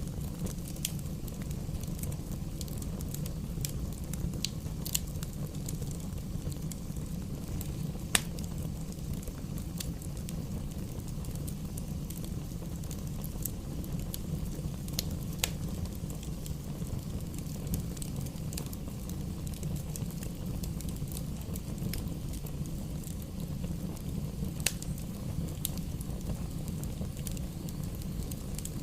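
Bonfire burning: scattered sharp crackles and pops over a steady low rumble, the loudest pop about eight seconds in.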